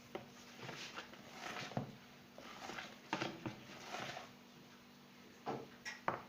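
A utensil stirring and scraping thick cake batter in a mixing bowl, in irregular strokes with short pauses between them.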